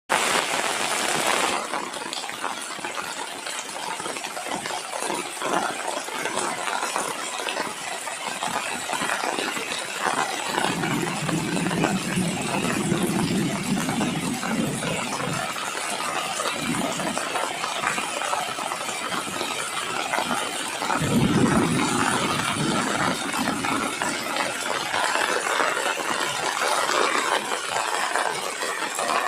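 Light rain falling, with many small drops pattering and ticking. A low rumble comes in twice, for about five seconds starting ten seconds in and again briefly a little after twenty seconds.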